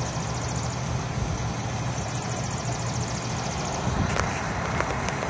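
Steady low mechanical hum, like an engine running at a constant speed, with a faint rapid pulsing hiss above it and a couple of sharp clicks about four seconds in.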